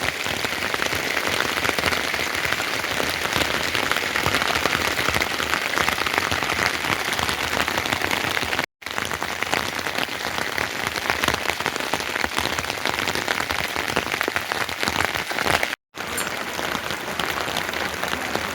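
Heavy rain falling: a steady dense hiss of countless drops. The sound cuts out for an instant twice, about 9 and 16 seconds in.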